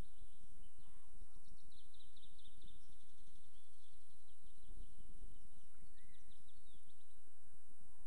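Songbirds singing, with several quick runs of short high repeated notes and a few single chirps, over a steady low rumble.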